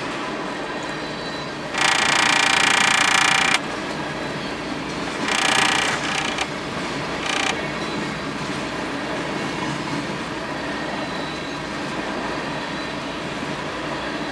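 Freight train of loaded tank cars rolling past, with the steady rumble and clatter of wheels on rail. A loud, high-pitched wheel squeal comes about two seconds in and lasts nearly two seconds, followed by two shorter squeals about five and seven seconds in.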